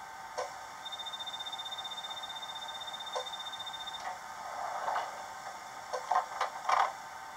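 Model train DCC sound decoder playing a Mk4 coach door sequence through the model's small speaker. A rapid high door-warning beep sounds for about three seconds, then comes a hiss and a cluster of door clunks near the end. Under it is a steady air-conditioning hum with a slow tick every few seconds.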